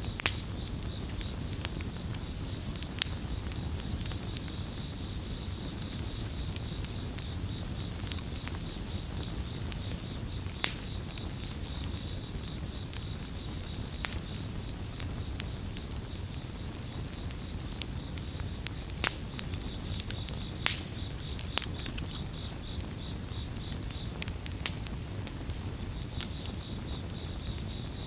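Campfire burning with a low steady rumble and scattered sharp crackles and pops, over a chorus of crickets chirping in a rapid high trill that is weaker in the middle and clearer near the end.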